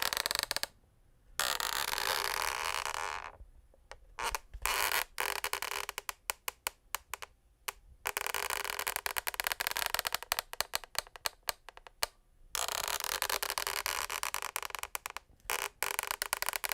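Wooden parquet floorboards creaking and cracking under weight. Drawn-out creaks stop and start, with a run of rapid sharp cracks in the middle.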